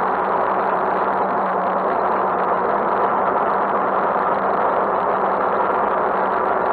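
Motorcycle engine running at a steady, even pitch, picked up by a handlebar-mounted camera, under a steady rush of wind and road noise.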